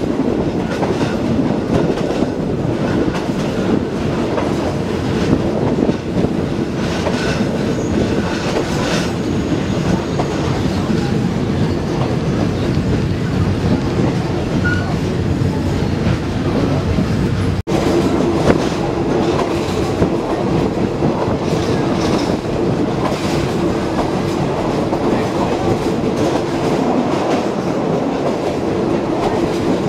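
Passenger train running along the line, heard from inside a carriage: a steady, loud noise of wheels running on the rails. The sound cuts out for an instant about two-thirds of the way through.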